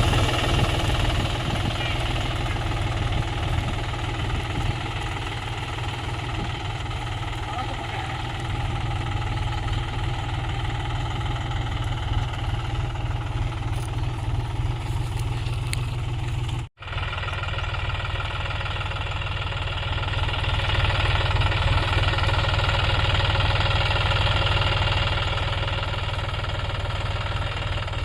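John Deere tractor's diesel engine running steadily at low revs under load. The sound cuts out completely for an instant about two-thirds of the way through, then carries on the same.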